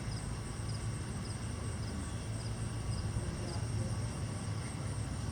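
Outdoor ambience: a steady low rumble, with a cricket chirping in faint double pulses about every two-thirds of a second.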